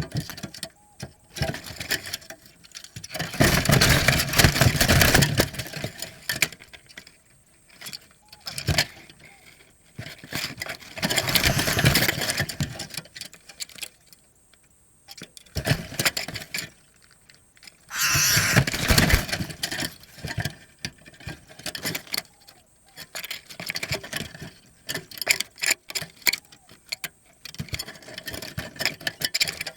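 Spotted dove cooing in short low phrases in the gaps between repeated loud bursts of rushing noise, each burst a few seconds long.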